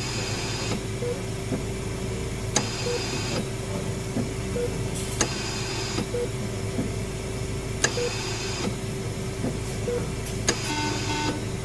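Hospital-ward ambience sound effect: a steady electrical hum and drone with a short, soft electronic beep about every 1.2 seconds. A high mechanical whirr lasting just under a second comes back about every 2.6 seconds, and sharp clicks are scattered through it.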